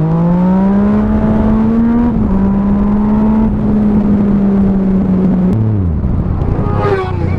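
Motorcycle engine accelerating under load. It rises in pitch, drops once as it shifts up about two seconds in, holds a steady speed, then falls away sharply near the end as the throttle closes.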